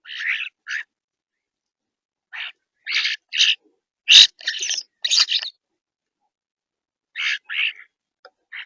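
Birds calling at a feeder: short, harsh notes in clusters of two to four, with pauses of a second or more between clusters. The loudest note comes about four seconds in.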